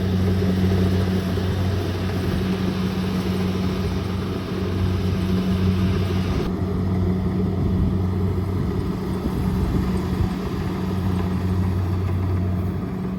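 Kubota DC-70 Plus combine harvester's diesel engine running steadily under load, a constant low drone with a noisy mechanical wash over it. The higher hiss drops away about halfway through while the drone carries on.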